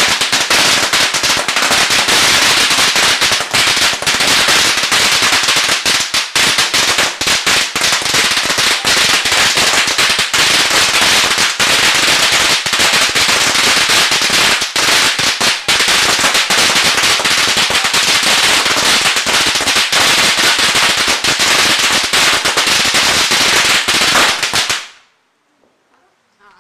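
Firecrackers going off in a loud, rapid, unbroken rattle of bangs that cuts off abruptly about 25 seconds in.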